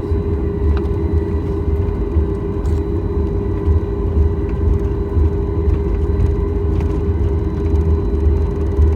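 Cabin noise inside a Boeing 737 MAX 8 on the ground, its CFM LEAP-1B engines running at low power: a steady low rumble under a constant hum.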